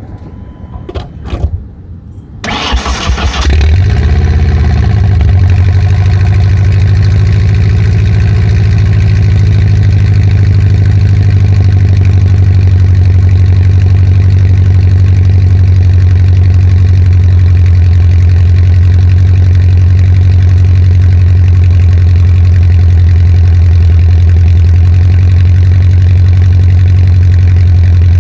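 First-generation Ford Ranger engine, exhausting through only headers and a downpipe, cold started: a few brief clicks, then it cranks and catches about two and a half seconds in, flares up in revs and settles to a loud, steady idle.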